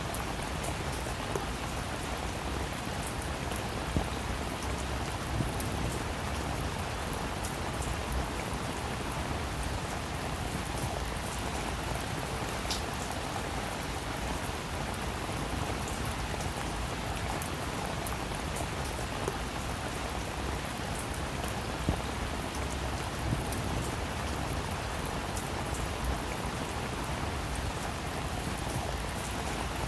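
Steady rainfall, a constant hiss with scattered individual drops ticking on a surface.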